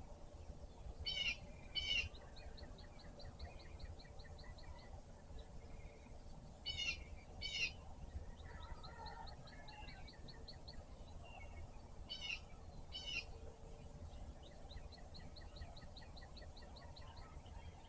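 A songbird sings the same song three times, about every five and a half seconds: two loud, rough notes, then a quick, even trill of about a dozen high notes. A steady low rumble runs underneath.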